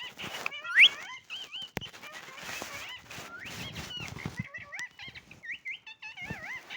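Pet parrot calling in a string of short chirps and squawks that bend up and down in pitch, with one loud rising squawk just under a second in.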